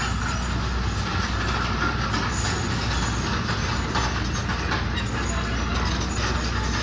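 Komatsu D31PX crawler bulldozer's diesel engine running steadily, a constant low rumble with light metallic clatter over it.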